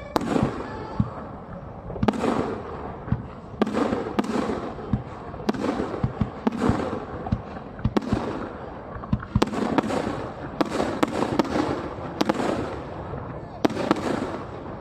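Aerial fireworks bursting, a string of a dozen or more sharp bangs, each followed by a rolling echo, coming thicker about two-thirds of the way through.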